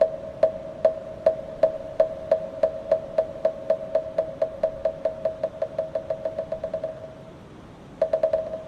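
Moktak (Korean Buddhist wooden fish) struck with a mallet in an accelerating roll. Hollow, pitched wooden knocks start about two a second, then speed up and fade into a rapid patter. After a short pause, a quick burst of strokes comes near the end.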